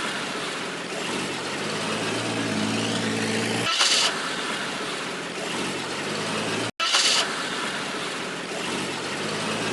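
Looped motor-vehicle sound effect: an engine running under steady road-like noise, with a short sharp hiss at the start of each loop, repeating about every four seconds. It cuts out briefly about seven seconds in and then starts over.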